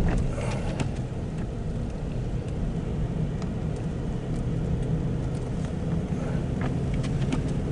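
Steady engine and road noise inside a moving car's cabin, with a few faint clicks and knocks.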